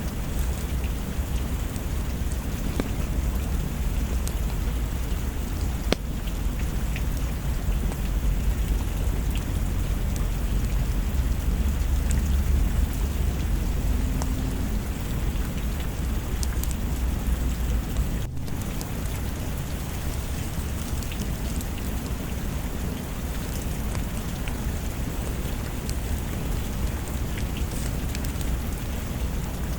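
Steady heavy rain with a low roll of distant thunder that swells through the first half and fades out, over scattered sharp little ticks. The sound briefly drops out for an instant just past the middle.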